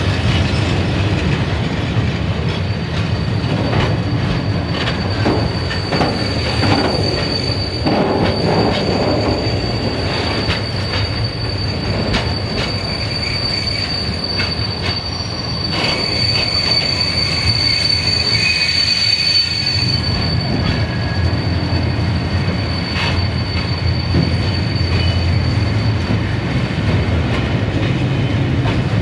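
Freight train of tank wagons rolling past close by: a steady rumble of wheels on rail with scattered wheel clacks. A high, steady wheel squeal runs through most of the passage and stops near the end.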